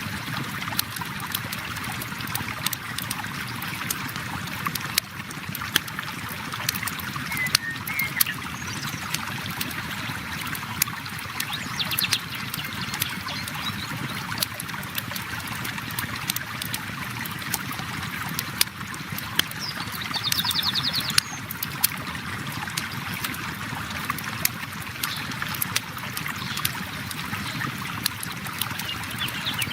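River water flowing steadily, with a wood campfire crackling in sharp, scattered pops over it.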